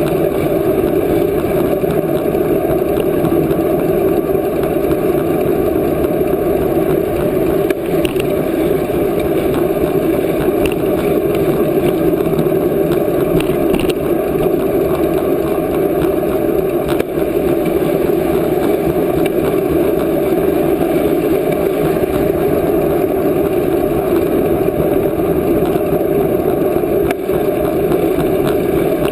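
Steady rushing noise of riding a bicycle: wind across the microphone mixed with tyre and road noise, unbroken and fairly loud.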